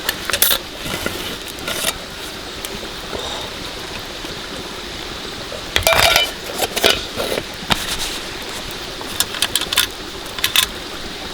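Steady rain, with scattered sharp clicks and knocks: a cluster about six seconds in and another near the end.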